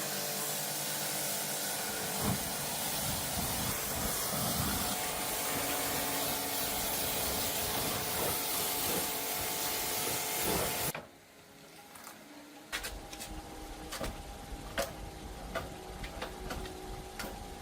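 Steady loud hissing that cuts off suddenly about eleven seconds in, followed by quieter scattered clicks and light knocks.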